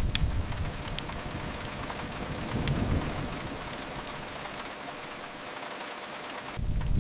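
Steady rain hiss with scattered sharp crackles from a wood fire. A low rumble fades away over the first few seconds and comes back suddenly near the end.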